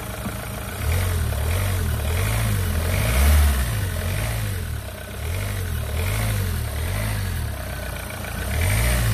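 Renault Clio 3's 1.5 dCi diesel engine revved lightly several times, the revs rising and falling about once a second. It runs without the noise it had: the fault was the alternator, now replaced.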